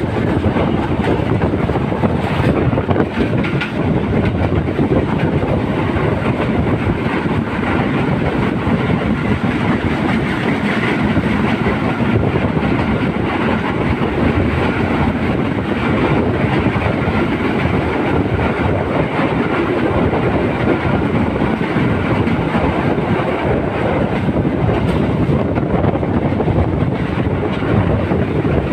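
Train running along the track, with a steady rumble and clatter of wheels on the rails.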